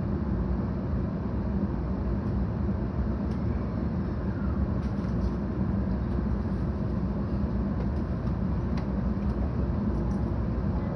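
Cabin noise inside a 700 series Shinkansen: a steady low rumble from the running gear and track, with a few faint clicks.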